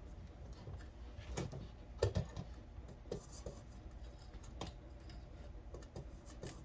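Scattered light clicks and taps of small parts and wires being handled, with a louder cluster of knocks about two seconds in.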